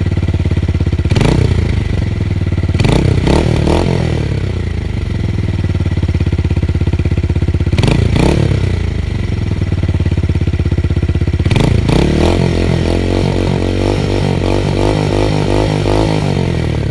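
Tuned motorcycle engine idling with a deep bass note, blipped up in short quick revs about five times, each falling straight back to idle. For the last few seconds it idles with an uneven, wavering beat.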